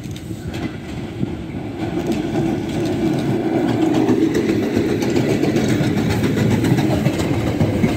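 GB Railfreight Class 73 electro-diesel locomotive passing close by at speed, leading a train of tank wagons. The locomotive and its wheels make a heavy rumble on the rails that grows louder as it comes alongside.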